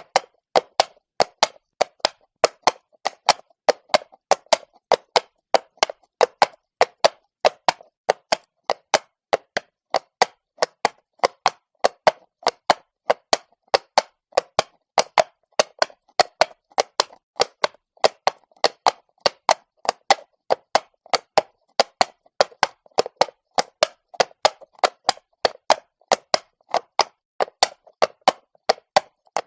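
Horse's hooves striking stone at a walk, sharp clip-clop strikes in an even rhythm of about two to three a second.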